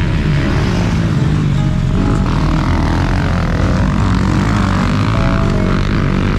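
Motocross dirt bike engine running hard while riding, its pitch rising and falling with the throttle, under background music.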